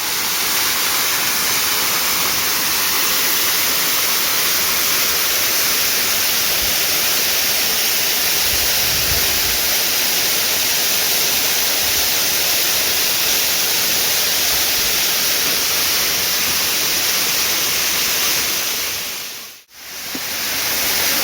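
Waterfall: a steady, even rush of falling water. It fades out briefly and comes back in near the end.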